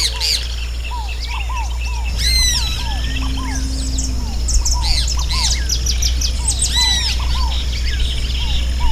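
Several birds calling and singing at once: a steady run of short arched notes, with higher whistles and chirps over them, and a steady low hum underneath.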